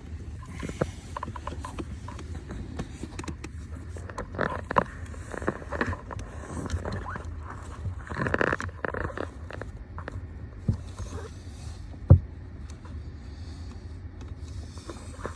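Plastic steering-wheel trim pieces being handled and fitted by hand: scattered clicks, creaks and short scrapes of plastic on plastic, with a longer scrape about halfway through and one sharp knock near the end.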